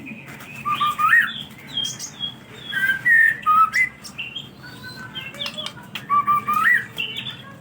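White-rumped shama (murai batu) singing a loud run of varied whistled phrases, with notes sliding up and down and short sharp chips between them. A phrase heard about a second in comes back near the end.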